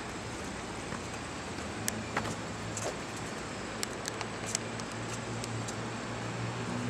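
Street noise with a car engine running nearby, a low steady drone that grows a little louder near the end, with a few faint clicks.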